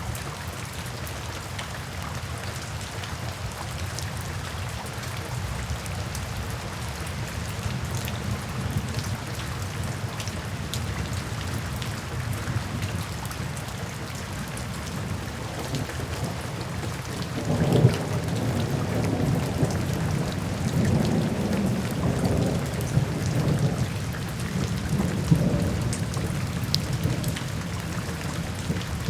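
Steady rain falling, with scattered drops ticking. From a little past halfway, thunder rumbles for several seconds, starting with a sharp crack and then swelling and fading.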